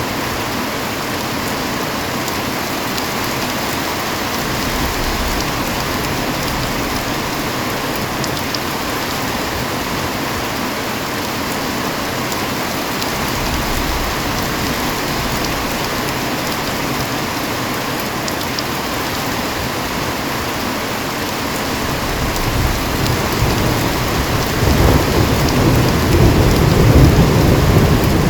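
Heavy rain pouring steadily, with a roll of thunder rumbling in about 22 seconds in, growing louder to a peak near the end.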